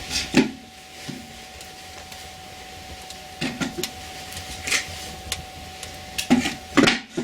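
Wood fire just catching in a cast-iron firebox, crackling with irregular snaps and pops, a cluster of louder ones near the end, over a faint steady hum.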